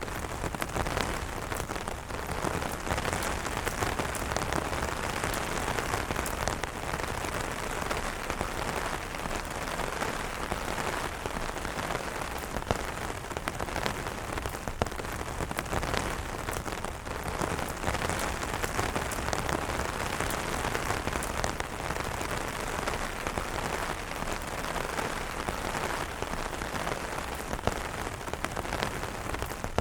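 Steady rain pattering on umbrellas, a dense even hiss of drops with many small individual taps.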